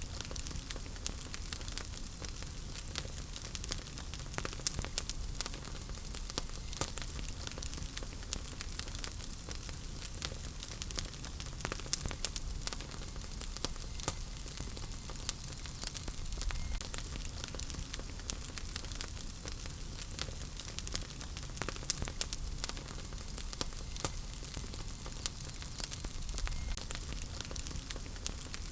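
Wood fire burning in a fireplace: a steady low rumble and hiss of flames with frequent irregular sharp crackles and pops.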